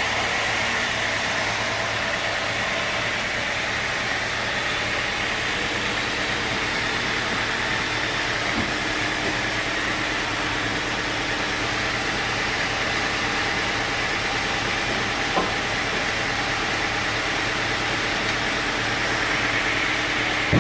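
Sawmill machinery running steadily: a constant engine hum under an even hiss, with one short knock about fifteen seconds in.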